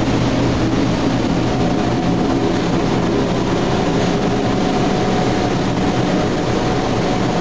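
Steady mechanical drone with a low hum and a faint higher steady tone, even in level throughout.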